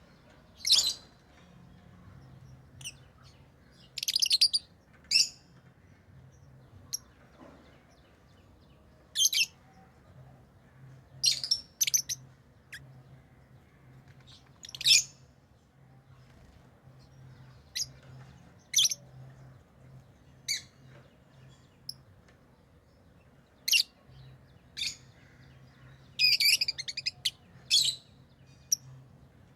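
Pet lovebirds chirping: short, shrill, high-pitched calls at irregular intervals, some in quick clusters. A faint steady low hum runs underneath.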